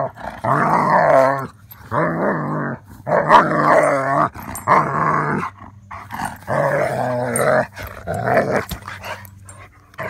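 German Shepherd vocalizing in a string of about seven drawn-out calls, each about a second long with bending pitch, separated by short pauses.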